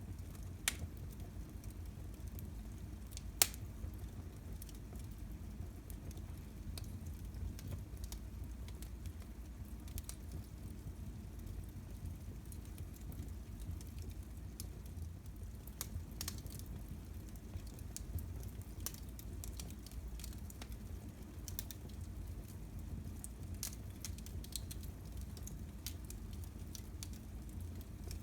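Wood fire crackling in a fireplace: scattered crackles and pops over a steady low rumble, with a sharp pop about three seconds in.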